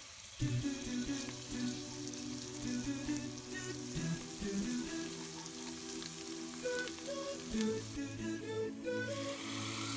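Chopped garlic and ginger sizzling in hot oil in a pot, stirred with a wooden spatula. Near the end, grated tomato is poured in and the sizzling gets louder.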